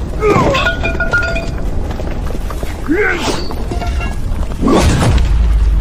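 Fight sound effects: men grunting and yelling between crashing and thudding impacts, over dramatic music.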